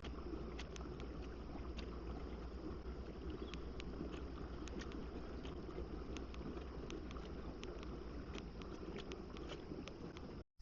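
Kayak under way on a pond: a steady rush of water along the hull with many small irregular splashes and ticks, cutting off suddenly near the end.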